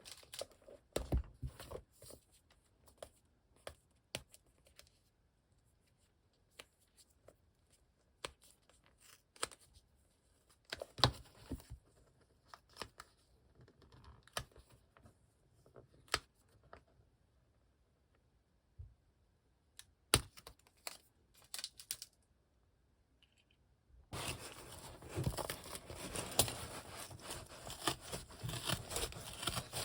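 Packaging of manga comic books being handled: scattered taps, rustles and short tears, a few seconds of near quiet, then steady tearing and crinkling for the last several seconds.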